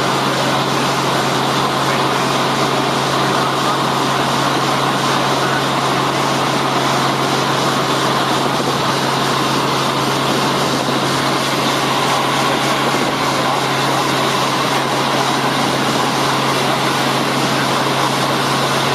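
Helicopter in flight: a steady, unchanging drone of engine and rotor, a constant low hum under a broad rushing noise.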